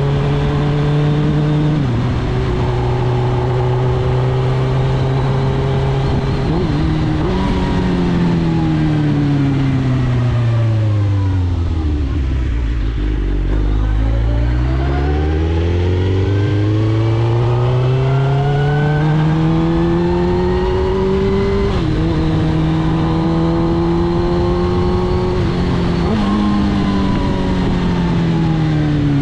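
2006 Suzuki GSX-R1000 K6's inline-four engine through a full Akrapovic titanium exhaust, heard from on the bike. The revs hold steady, then fall away over several seconds to a low point about halfway through. They climb again with a quick drop like a gear change about two-thirds of the way in, and fall off again near the end.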